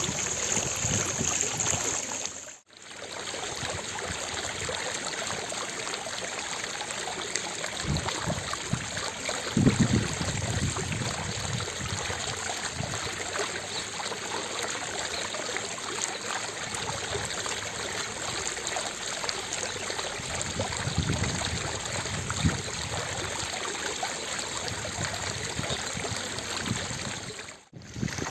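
Water fountain splashing steadily, a continuous rush of falling water. The sound drops out for a moment shortly after the start and again near the end, and its tone shifts slightly after the first break.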